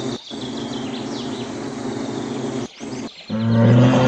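Woodland ambience with birds chirping over a steady background. A loud, low, steady sustained sound starts a little over three seconds in.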